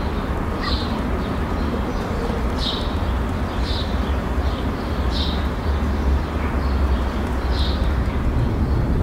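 Outdoor ambience: a steady low rumble, with a small bird giving short high chirps every second or two.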